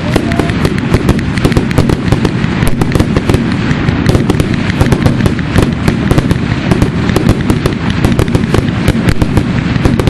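Fireworks grand finale: a dense, rapid barrage of shells bursting and cracking many times a second, over a continuous low rumble of booms.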